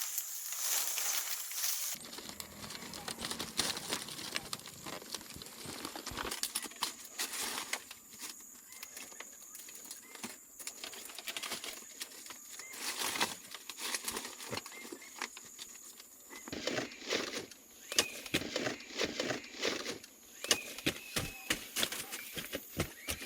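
Irregular knocks, taps and scrapes of hand work with primitive tools and building materials, coming in quick clusters that grow busier and louder in the second half.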